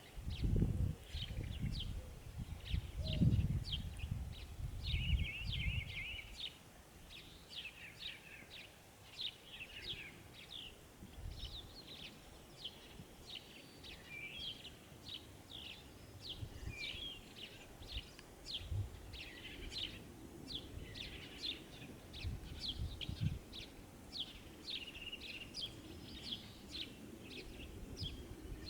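Many small birds chirping and twittering in a dense, continuous chorus of quick high notes. Low rumbling buffets come through underneath, heaviest in the first six seconds and returning now and then.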